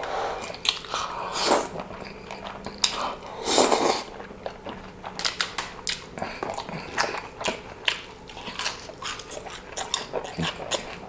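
Close-miked chewing of food, with crisp crunching and wet mouth clicks. There are two louder bites about one and a half and three and a half seconds in.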